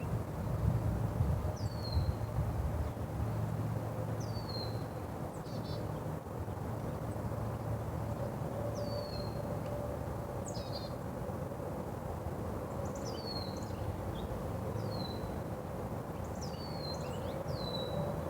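Small birds giving short, high chirps that slide down in pitch, repeated every second or two and more often in the second half. Under them runs a steady low rumble and hum.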